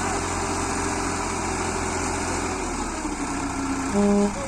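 Tractor engine idling steadily, its low hum thinning out a little over halfway through. Near the end, two short loud beeps sound about half a second apart.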